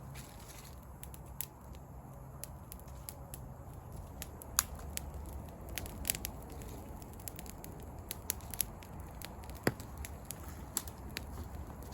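Campfire crackling: burning wood giving off irregular sharp pops over a low, steady rumble.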